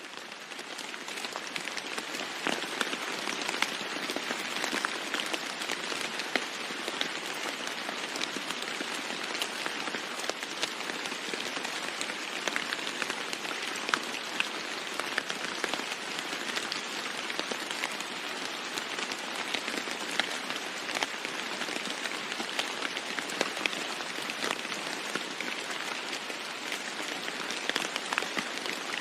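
Steady heavy rain falling on a roof, a dense hiss full of sharp drop ticks, fading in over the first second or so.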